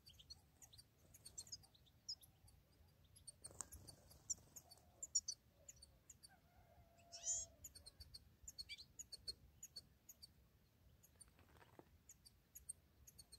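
Faint, scattered high chirps and twitters of small songbirds, with one longer, louder call about seven seconds in.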